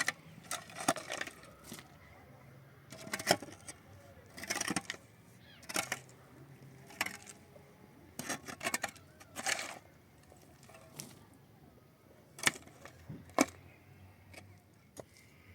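Irregular knocks and clattering clicks, single hits and short clusters roughly a second or two apart, as of hard objects being handled.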